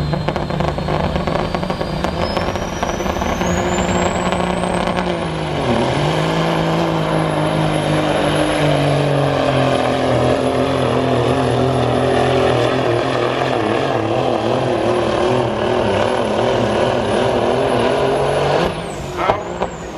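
Diesel semi truck engine pulling hard under full load, with a high turbo whistle that climbs over the first several seconds and then holds steady. The engine pitch dips briefly about a quarter of the way in, like a gear change, before the engine runs louder. Near the end the engine and whistle wind down as the truck stops.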